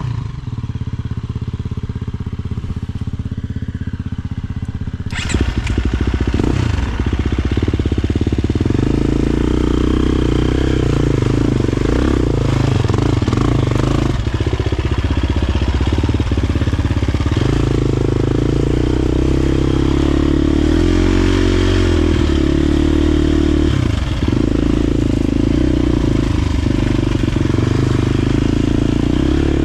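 KTM enduro dirt bike engine running, low and steady for the first few seconds. From about five seconds in it gets louder, with the revs rising and falling constantly as the bike is ridden off-road.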